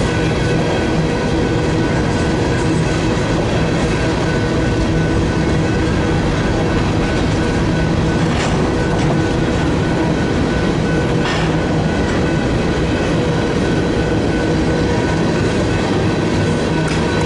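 Freight grain train rolling steadily past, its cars' wheels clattering over the rail with a couple of sharper knocks along the way.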